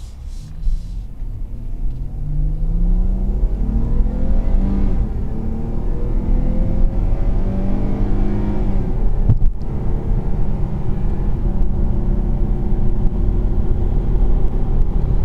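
A 2019 Dodge Charger GT's 3.6-litre V6 accelerating hard, heard from inside the cabin. The engine note climbs steadily for several seconds, breaks briefly about nine seconds in, then settles into a steady drone with low road rumble at highway speed.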